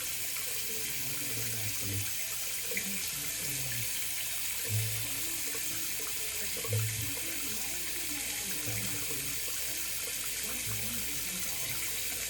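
Bathroom sink tap running steadily, an even hiss of water pouring into the basin.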